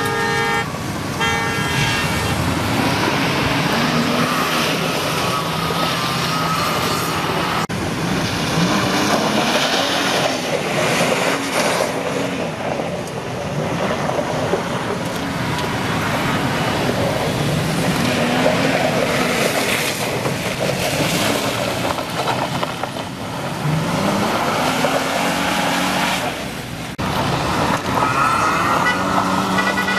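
Car engines revving up and down over a steady driving roar, with a car horn sounding at the start and again near the end.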